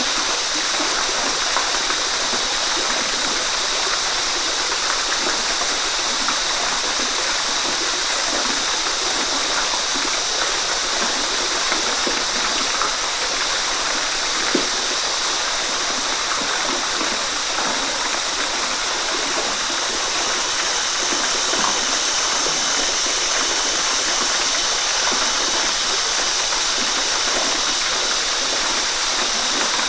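Waterfall: a steady, unbroken rush of falling water, loudest in its hissing upper range.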